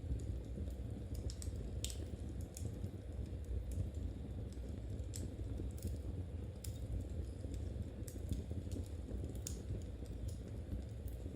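Knitting needles clicking and a wood fire crackling: light, irregular clicks over a steady low rumble.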